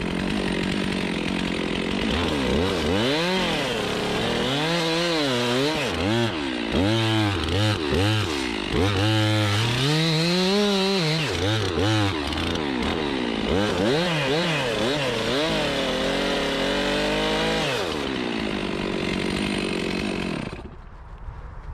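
Chainsaw running, its revs rising and falling over and over, then steadying and cutting off near the end.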